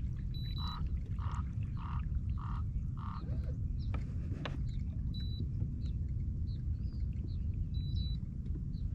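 Steady low rumble of wind on the microphone out on open water. In the first three seconds a bird calls five times in an even series, and faint chirps follow later.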